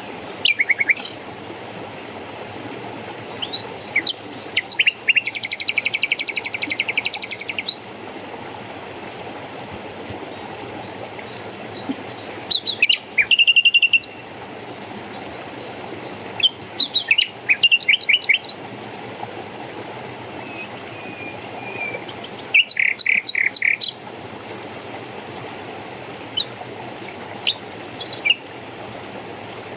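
Songbirds calling in short phrases every few seconds, with one rapid trill lasting about three seconds, over a steady low hiss.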